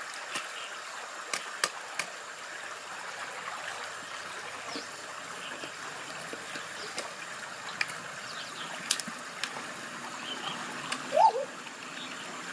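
Water trickling and running steadily, with scattered light clicks and small splashes. About eleven seconds in comes a brief pitched call that rises and falls, the loudest sound here.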